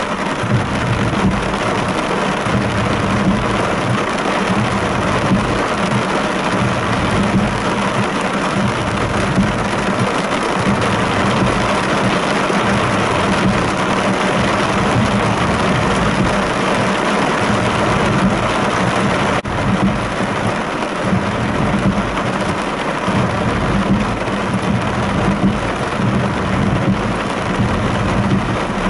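Heavy thunderstorm rain pelting the roof and windscreen of a car, heard from inside the car: a loud, steady, dense hiss.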